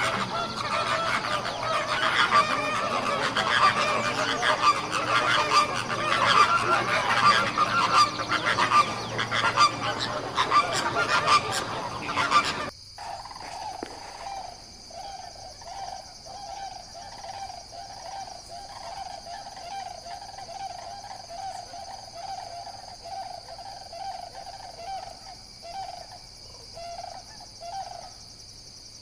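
A flock of birds honking and calling over one another in a dense, goose-like chorus. After an abrupt cut about halfway through, a quieter recording follows: a steady series of repeated calls, a few each second, over a faint hiss.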